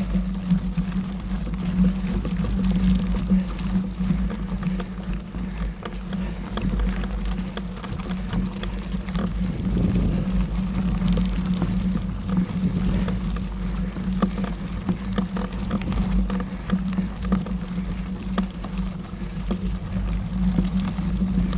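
Mountain bike ridden along a dirt trail, heard from a camera riding with it: a steady low rumble and hum with frequent small rattles and clicks from the bike over rough ground.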